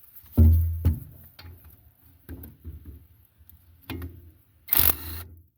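Hand tools working loose the tines of a rotary tiller: metal knocks, clanks and rattles, with a loud knock about half a second in and a short, sharp scraping noise near the end.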